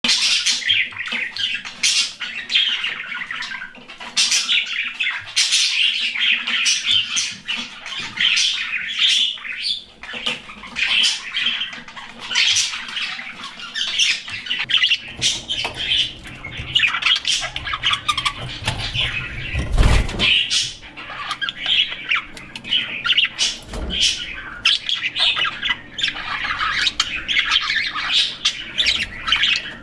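A colony of budgerigars chattering, many short calls overlapping without a break. Two dull low thumps come about two-thirds of the way through.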